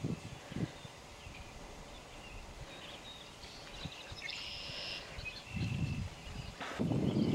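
Birds singing and calling, with a buzzy trill about four and a half seconds in. Low rumbling noise comes and goes underneath and grows louder near the end.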